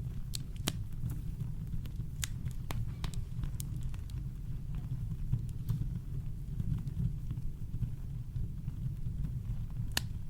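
Campfire crackling: scattered sharp pops and snaps over a steady deep rumble of brown noise, with one louder pop near the end.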